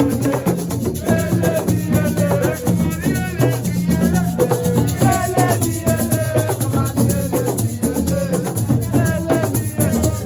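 Live assiko-style music: a fast, steady rattling percussion beat over a bass line, with a shifting melody on top.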